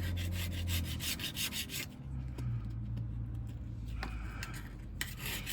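Hand scraper scraping old gasket material off the rear differential's mating surface in quick repeated strokes, easing off in the middle and picking up again near the end, over a steady low hum.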